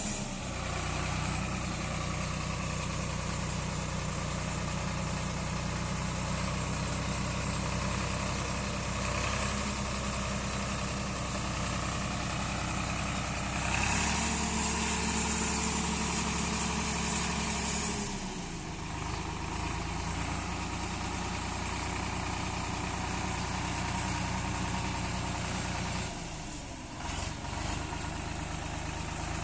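Swaraj 744 FE tractor's three-cylinder diesel engine idling steadily. About halfway through, the revs rise for roughly four seconds, then drop back to idle.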